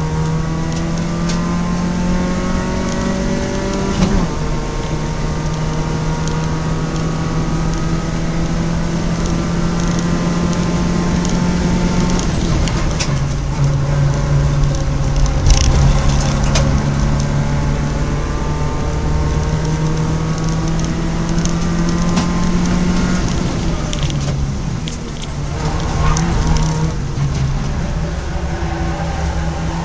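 Citroën Saxo track car's engine heard from inside the stripped cabin at racing speed: the engine note climbs, drops at a gear change about four seconds in, holds high, drops again a few seconds before the middle, eases off briefly near the end and pulls up again. A few sharp clicks come around the middle.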